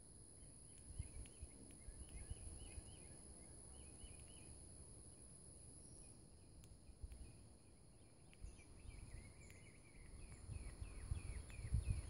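Small birds chirping in quick runs of short, high notes, once early and again near the end, over a steady high insect drone. A low, uneven rumble grows louder near the end.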